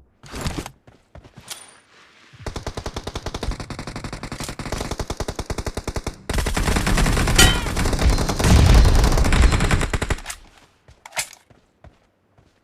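Video-game automatic gunfire: a few short shots, then a long rapid burst from about two seconds in, turning louder and deeper for several seconds more. A single shot follows near the end.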